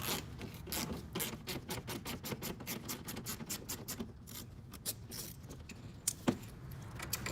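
Socket ratchet clicking in quick, even ticks, about four or five a second, as a 10 mm bolt under the bumper is turned out. The ticks thin out partway through, with a couple of sharper clicks near the end.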